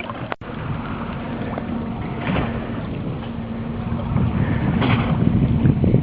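Sailboat under way with a steady engine hum and wind buffeting the microphone, the wind noise growing louder toward the end.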